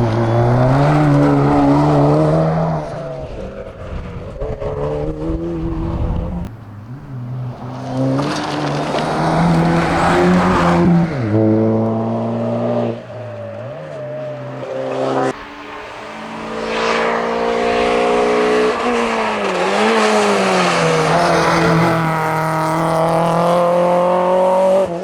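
Hillclimb rally car engine at full throttle, revs climbing through several quick gear changes and dropping back on lift-off as the car passes and carries on up the course.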